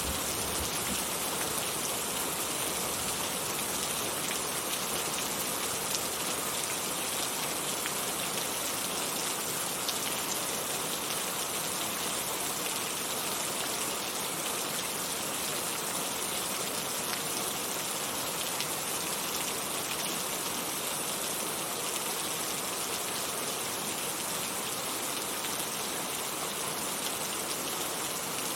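Heavy rain falling steadily, a dense even hiss with many small drop ticks, strongest in the high range.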